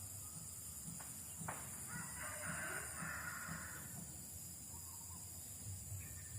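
A rooster crowing once for about two and a half seconds, starting about a second and a half in, after a faint click.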